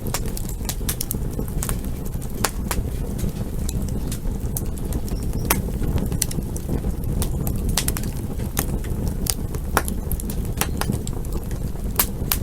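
Campfire burning: a steady low rush of the flames with frequent sharp, irregular crackles and pops from the burning wood.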